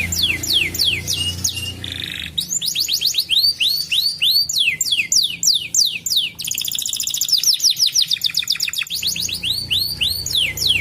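Domestic canary singing a continuous song. It is built from fast runs of repeated down-slurred notes and switches to a new phrase every second or two, with a very rapid trill about two-thirds of the way through.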